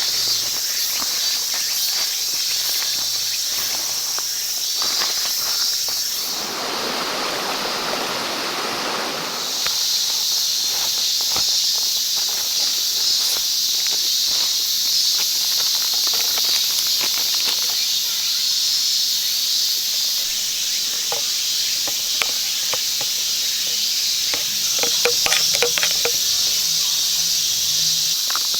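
Insects chirring: a steady high-pitched drone of crickets or cicadas, with scattered light clicks and crackles. For about three seconds, roughly a quarter of the way in, a lower rushing noise takes the drone's place.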